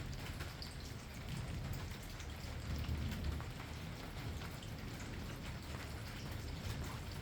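Steady rain with many individual drops ticking on a surface, over a low rumble that swells briefly about three seconds in.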